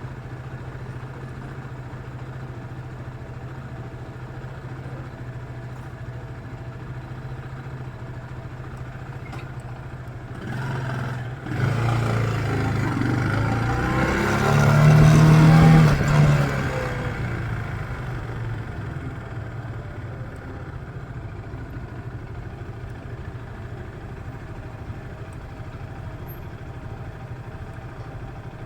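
Motorcycle engine idling steadily with a low hum. About ten seconds in, a much louder engine swells over a few seconds, shifting in pitch, and dies away about six seconds later, leaving the idle.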